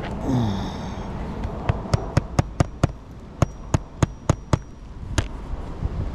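Hammer driving a roofing nail by hand through asphalt shingle: a short falling squeak near the start, then six sharp strikes about four a second, a short pause, five more, and a last blow about five seconds in.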